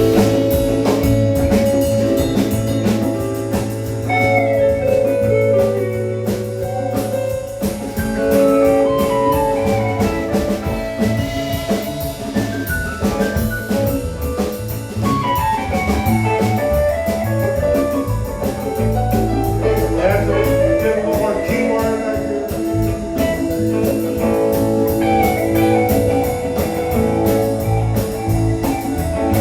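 Live band playing: electric guitar picking out runs of notes that step downward, over held bass notes and a drum kit.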